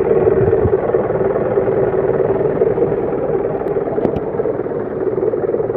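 Steady running noise of an Isuzu truck's 4HL1 four-cylinder diesel engine, running again after its crank-no-start fault was fixed, with a constant drone.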